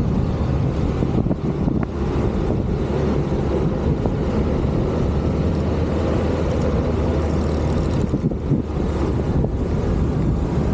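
A vehicle engine running at a steady speed, with a dense low rumble.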